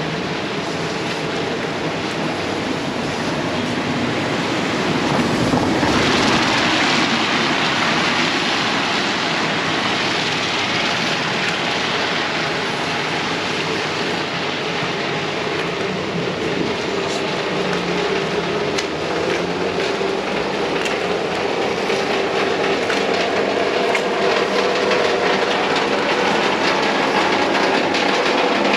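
Heavy tropical rain pouring down in a steady, dense hiss that grows louder about six seconds in.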